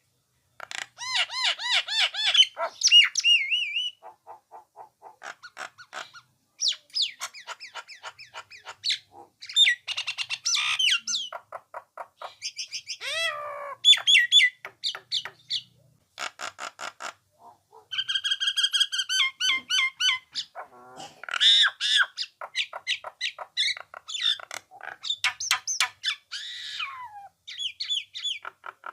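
Nias hill myna singing in a long, varied run: clear whistles, harsh chatter and fast trains of short repeated notes, with a few sliding calls and only brief pauses.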